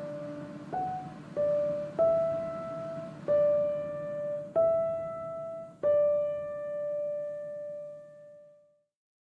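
Background music: a slow piano melody of single notes, each struck and left ringing, the last fading out to silence near the end.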